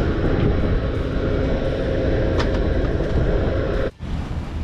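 A boat's motor running steadily with a constant hum. It cuts off suddenly near the end and gives way to wind on the microphone.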